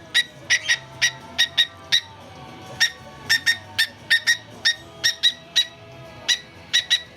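Cockatiel making short, sharp pitched clicks in a beat, often in pairs, about two to three a second, over background music.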